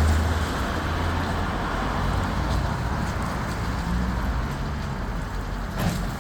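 Rollover car wash machine running: a steady mechanical wash noise over a low motor hum, which eases slightly about half a second in, with a single click near the end.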